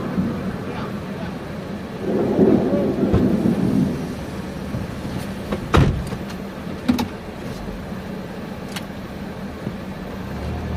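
Thunder rumbling, heard from inside a vehicle over its steady engine hum, swelling about two seconds in and fading out by four seconds; a few sharp clicks follow later.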